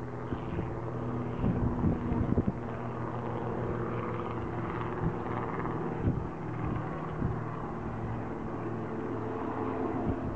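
Helicopter engine and rotor running steadily in a hover, a constant droning hum with a few low bumps of wind on the microphone.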